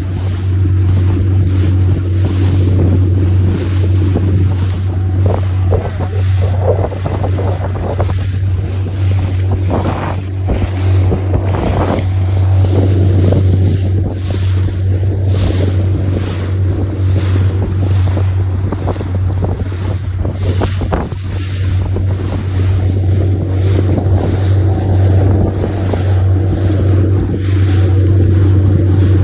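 A boat under way: a steady low drone with wind buffeting the microphone and water rushing past.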